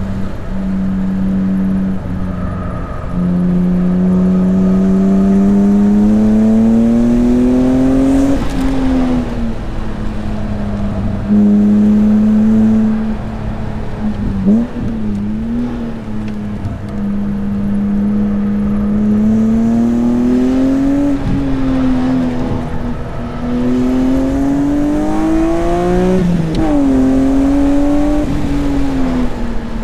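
BMW S54 straight-six in an E36 M3 pulling hard on track: the engine note climbs steadily for several seconds at a time, then drops sharply as the driver lifts or shifts, about three times, with steadier stretches between.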